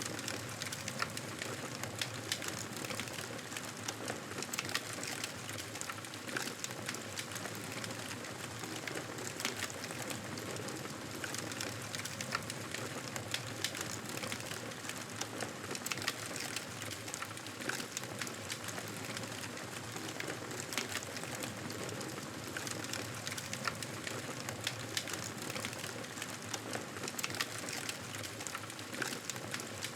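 Fireplace fire crackling: a steady hiss with frequent irregular sharp pops and snaps.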